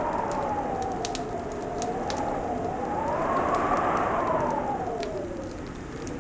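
Wind howling in a wavering tone that rises and falls slowly, with the snaps and pops of a crackling wood fire scattered over it.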